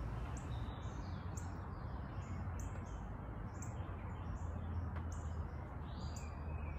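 Small birds chirping repeatedly, short high calls coming one or two a second, over a steady low hum.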